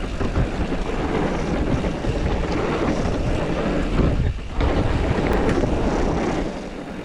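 Wind buffeting the microphone and tyre rumble from a mountain bike rolling fast down a dirt trail. There is a brief lull about four and a half seconds in, and the noise eases near the end.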